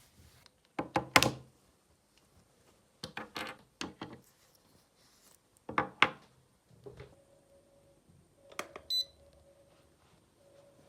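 Several clusters of sharp knocks and clatters in a small room, with a brief high beep near the end.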